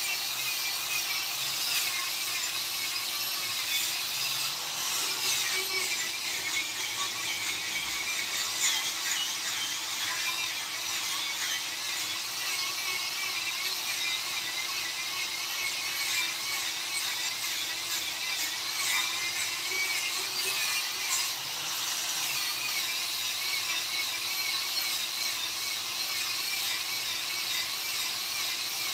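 A small high-speed power tool working wood in a carving workshop: a continuous gritty grinding hiss with a high whine that wavers up and down as the load changes.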